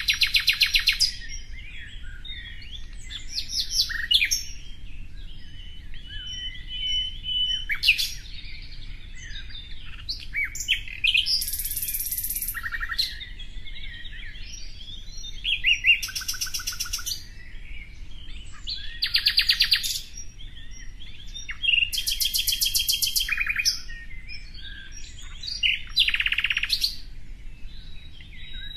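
Songbirds singing: loud, fast trilled phrases about a second long recur every few seconds, with short chirps and brief whistles between them.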